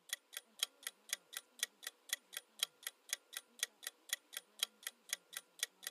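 Quiz countdown timer sound effect: a clock ticking evenly, about four ticks a second.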